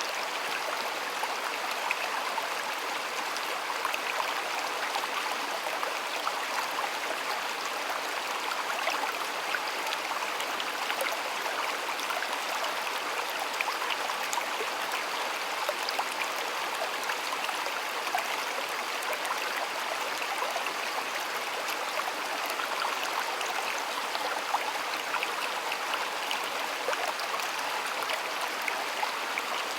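Shallow stream running steadily over stones, a constant burbling rush with small splashes and no change in level.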